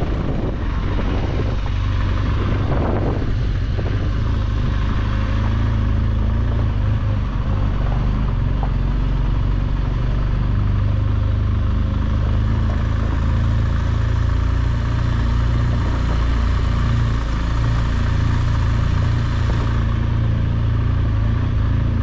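BMW R1200GS Adventure's boxer-twin engine running steadily under way, with wind and road noise.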